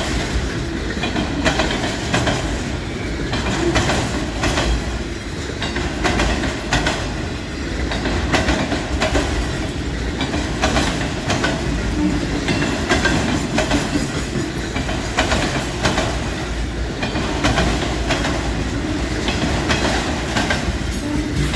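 Freight train of autorack cars passing at speed, its steel wheels rolling on the rails in a steady loud noise with repeated clickety-clack as the wheels cross rail joints.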